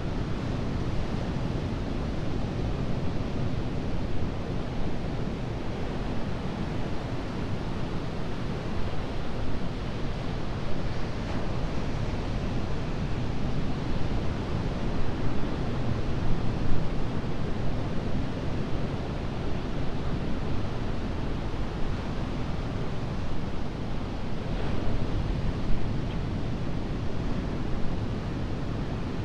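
Ocean surf: waves breaking and washing on the shore as a steady rushing noise that swells slightly now and then, with some wind rumble on the microphone.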